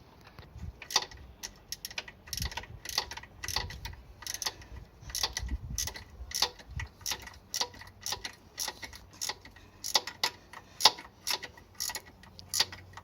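Irregular sharp metallic clicks, a few a second, from a ratchet spanner working bolts tight on a motorcycle engine mounting.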